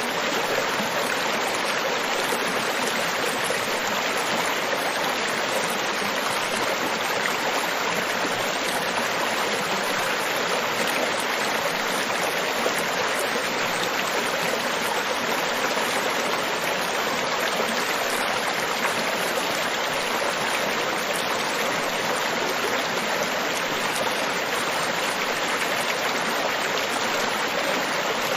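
Tropical beach ambience: a steady, even rush of water noise with no separate wave breaks or swells standing out.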